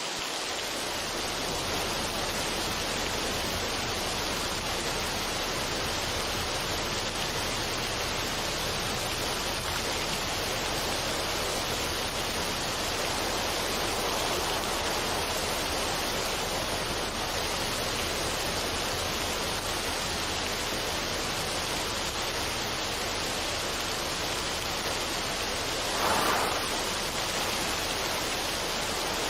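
Steady, even rushing noise of a relaxation ambience track, with a brief swell about 26 seconds in; no music is heard.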